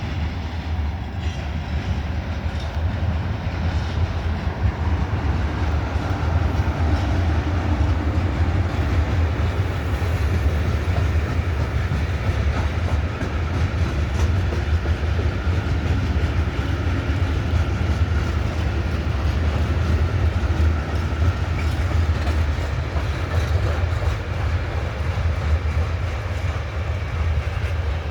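Freight train rolling by on the rails: a long, steady, loud rumble of its wagons.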